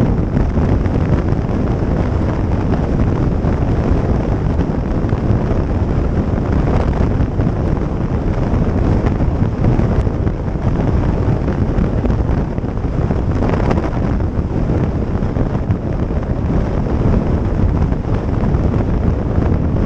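Wind buffeting the microphone of a riding motorcycle, a steady loud rumble of wind and road noise that drowns out any distinct engine note.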